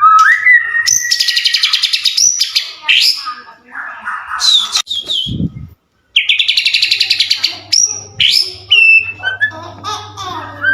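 White-rumped shama singing in full song: loud whistled phrases that slide up and down, broken by two fast rattling trills, one near the start and one just past halfway. A faint low hum runs underneath at times, and a short low thump falls in a brief pause about halfway.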